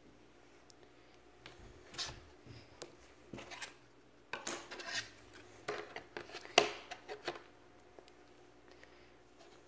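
Jigsaw puzzle pieces being handled and fitted together: scattered light taps, clicks and short scrapes, with the sharpest click about six and a half seconds in.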